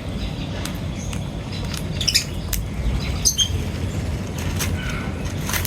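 Birds giving a few short, high chirps and squawks at intervals, over a steady low rumble.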